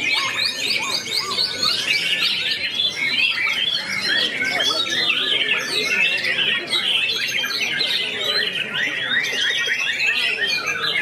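White-rumped shama (murai batu) singing: a dense, unbroken stream of fast whistles, trills and chirps that never pauses.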